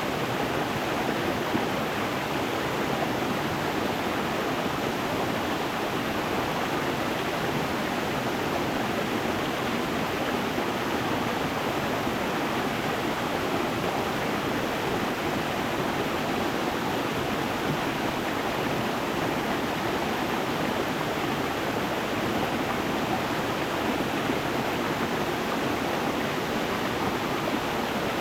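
Stream water flowing over stones: a steady, even rushing and splashing with no change throughout.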